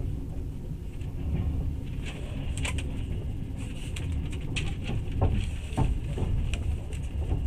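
Passenger train carriage heard from inside while the train is moving: a steady low rumble, with scattered sharp clicks and a few short creaks starting about two seconds in.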